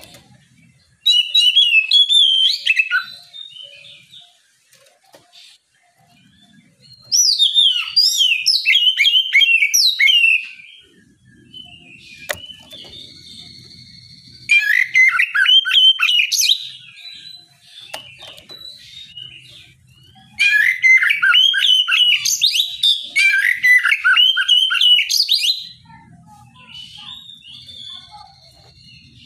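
Oriental magpie-robin (kacer) singing its loud, open 'ngeplong' song in four bursts of rapid, varied whistled phrases, each a few seconds long, with softer drawn-out whistles between bursts.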